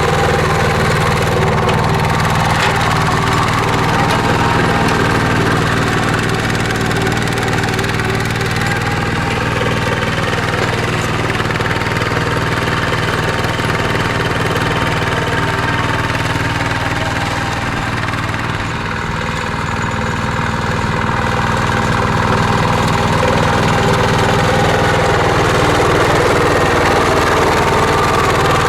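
Mini tractor's engine running steadily under load while ploughing, dipping slightly about two-thirds of the way through before picking back up.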